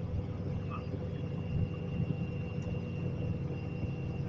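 Steady low vehicle rumble heard from inside a moving vehicle, with a thin high steady whine coming in about a second in.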